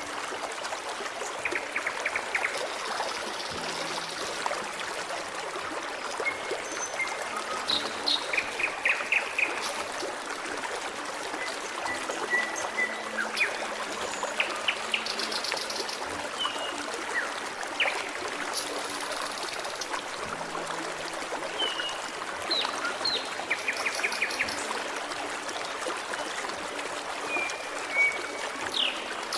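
Forest stream running and trickling steadily, with small birds calling over it: quick trills, chirps and brief whistled notes scattered throughout.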